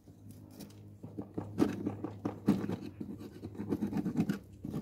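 Flat-blade screwdriver scraping crusted residue and burrs off the edges of motorcycle disc brake pads, in quick irregular strokes that start about a second in. The caked residue and burrs on the pads are the cause of the brake squeal.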